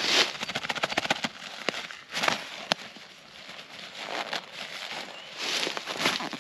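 Crackling rustle of a tarp being handled and spread out, with a quick run of small clicks about half a second in and a single sharp click near the middle.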